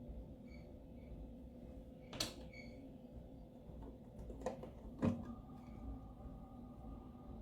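Three sharp knocks or clicks, about two seconds in, near the middle and about five seconds in, the last one the loudest, over a low steady hum.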